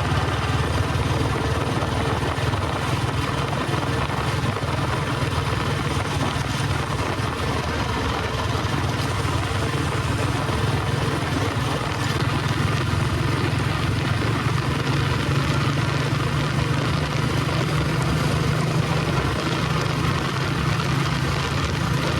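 Royal Enfield Bullet 350 Electra's cast-iron single-cylinder engine running under way at a steady speed, with an even, unbroken thump.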